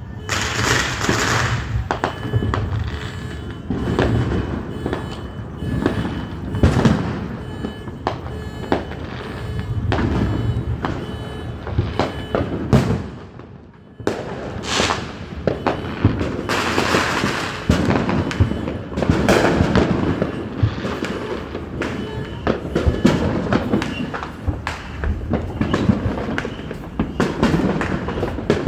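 Fireworks going off in a dense barrage of bangs and crackles in quick succession. It briefly dies down a little before the midpoint, then starts again abruptly.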